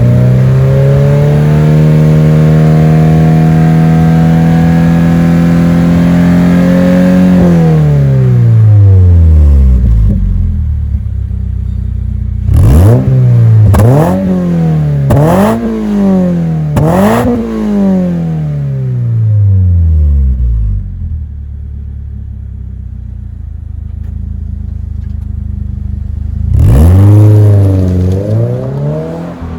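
Subaru BRZ / Toyota GR86 2.4-litre flat-four revving through a COLBASSO Ti-R Plus straight-through titanium single-exit aftermarket exhaust. The revs are held high for several seconds and then drop away, followed by four quick throttle blips a little over a second apart. It settles to idle, with one more blip near the end.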